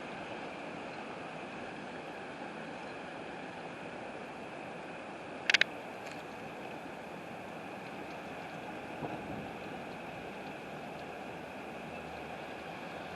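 Steady rush of a windstorm with no let-up. A sharp double click stands out about five and a half seconds in, and a fainter knock comes near nine seconds.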